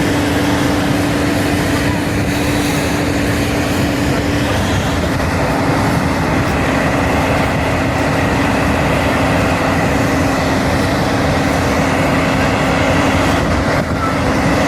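Aircraft engines running steadily: a loud, even noise with a constant hum that drops slightly in pitch about four seconds in.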